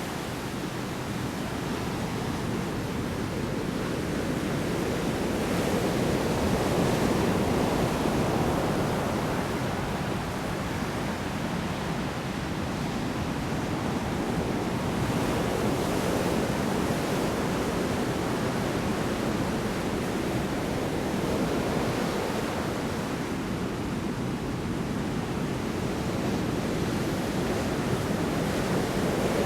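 Heavy storm surf breaking on the shore: a continuous deep rushing wash of water that swells and eases every several seconds as waves come in.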